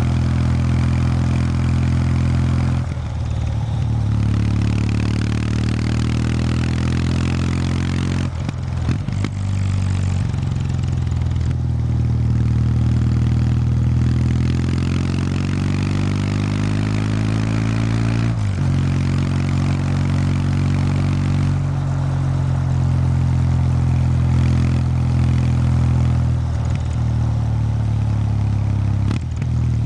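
Kawasaki W800 Street's air-cooled parallel-twin engine through its stock exhaust while being ridden: a deep, steady exhaust note whose pitch climbs under acceleration. Its pitch breaks off briefly about five times and picks up again, as at gear changes.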